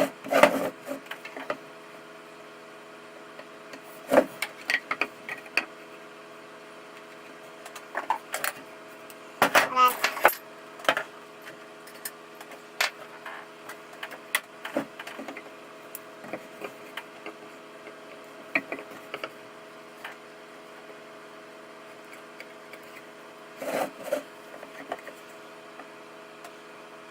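Scattered knocks, taps and clicks of wooden pieces and hand tools being handled on a workbench while the corners are measured and marked in pencil, over a steady background hum.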